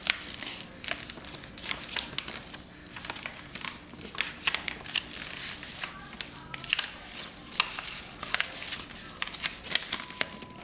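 A sheet of paper being unfolded and refolded by hand: irregular crinkling and rustling with sharp crackles as the creases are pressed.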